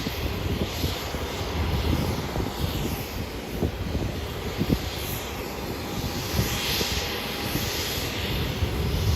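Airliner jet engines running steadily, a continuous rumble and hiss that swells somewhat late on.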